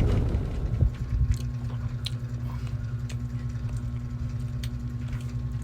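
A loud low rumble dies away over the first second, leaving a steady low hum with scattered faint clicks.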